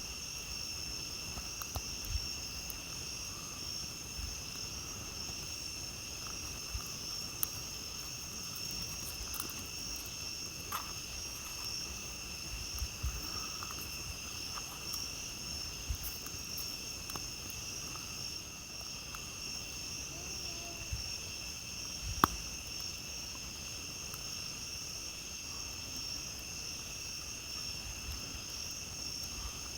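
A steady, high-pitched chorus of night insects, with scattered crackles and pops from a campfire; the sharpest pop comes about 22 seconds in.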